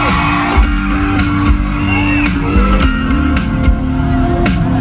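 Live rock band playing a song's intro with electric guitar and drums, with shouts from the audience.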